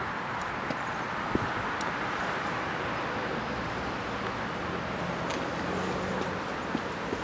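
Steady outdoor background noise, like distant road traffic, with a few faint clicks.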